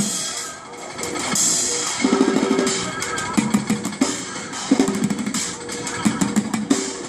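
Bucket drumming: sticks beating plastic buckets and barrels in fast rolls and bursts of strikes, the buckets giving short hollow tones, with a hissing crash about a second and a half in.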